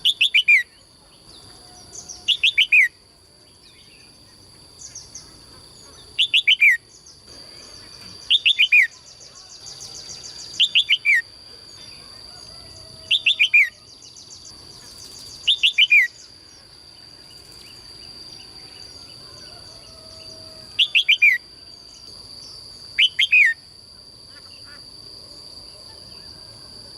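A songbird calling over and over: short, loud phrases of a few quick notes falling in pitch, repeated about every two seconds, with a brief fast trill near the middle. A steady high-pitched tone runs underneath.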